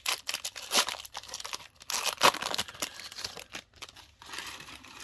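Foil Pokémon card booster pack wrapper crinkling and tearing as it is handled and opened, a dense run of crackles and small snaps.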